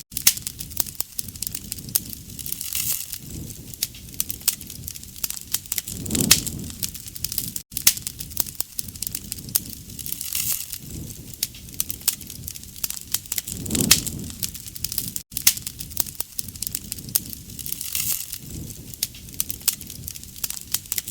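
Wood campfire crackling with dense sharp pops and snaps, over a low rushing of flame that swells and fades every three to four seconds. The sound cuts out briefly twice.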